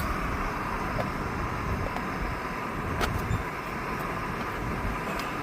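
Portable gas camping stove burning steadily under a pot as water heats toward the boil, a constant hissing roar, with a few small clicks and taps, the sharpest right at the start and others about three and five seconds in.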